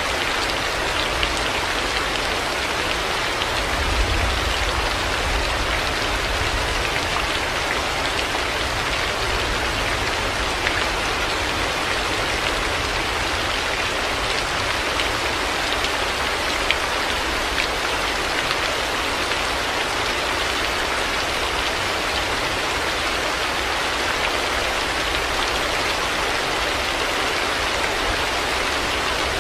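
Heavy rain falling steadily, an even hiss of drops with the odd sharper tick of a single drop. A brief low rumble swells about four seconds in.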